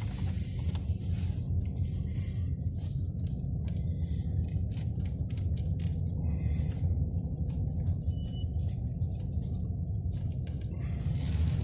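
Car driving on a snow-covered road, heard from inside the cabin: a steady low road rumble with scattered crackles from the tyres on snow and ice.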